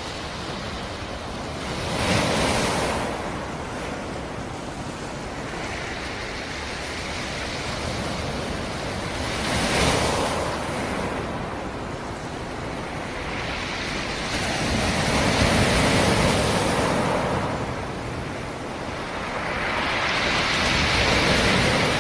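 Black Sea surf: waves breaking and washing back, rising into four louder rushes over a steady hiss of water.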